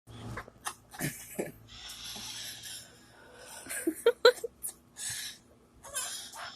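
Parrot making short breathy, laugh-like sounds and squawks. The loudest part is a quick run of three or four pitched squawks about four seconds in.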